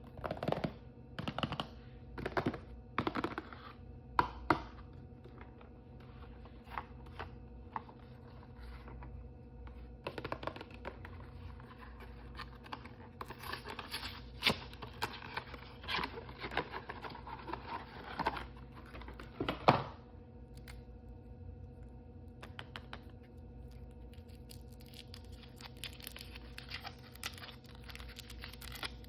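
Plastic blind-bag packaging crinkling and tearing as it is handled and opened, with runs of rustling and sharp clicks. A faint steady hum lies beneath.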